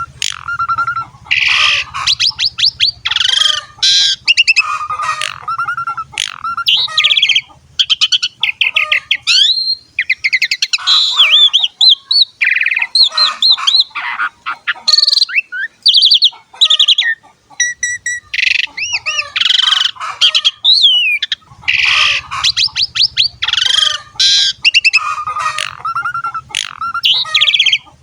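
Asian pied starling (jalak suren) singing a long, varied song of rapid chattering, rattling and whistled phrases, with short breaks about ten seconds in and again a little past halfway.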